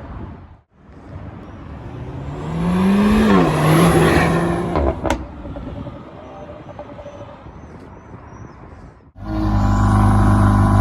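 Renault Mégane RS's 1.8-litre turbocharged four-cylinder engine and exhaust, in a few spliced clips. The engine note builds and rises in pitch, then drops about three seconds in. A single sharp pop comes from the exhaust about five seconds in. After a brief cut near the end there is a loud, steady engine note.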